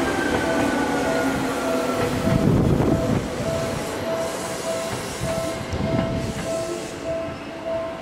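Seibu 2000-series electric train running past, its motor whine falling in pitch as it slows, with wheels knocking over rail joints a few seconds in and again later. A level crossing's warning bell rings a steady repeated ding throughout, and the train grows quieter as it pulls away.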